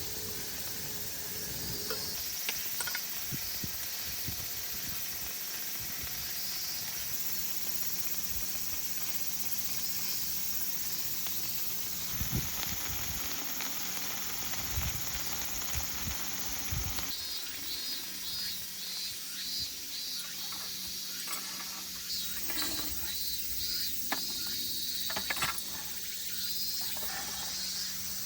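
Bulgogi meat sizzling in a pan: a steady high hiss of frying, with a few short clicks.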